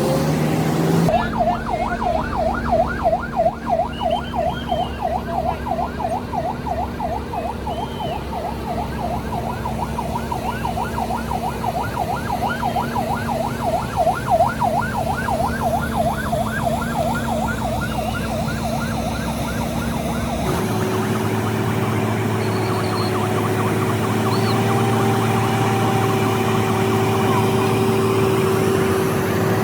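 A siren sweeping quickly up and down, about three times a second, over a vehicle engine's rumble. It stops abruptly about twenty seconds in and is replaced by a steady engine drone.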